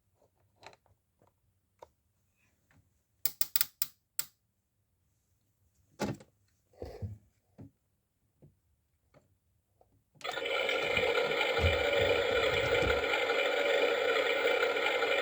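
Small plastic clicks and knocks, including a quick run of sharp clicks, as a toy washing machine is handled and set. About ten seconds in its motor starts abruptly with a steady whir, with a few low thuds soon after.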